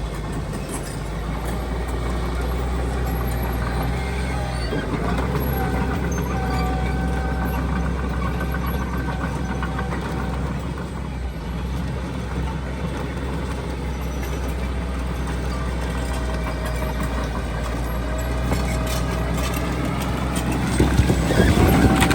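Diesel engine of heavy earthmoving machinery running steadily, a low hum with a faint whine over it. It grows louder near the end.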